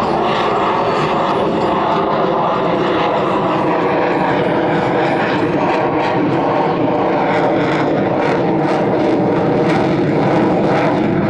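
F-22 Raptor's twin Pratt & Whitney F119 turbofan engines, loud and steady throughout, taking on a crackling edge in the second half.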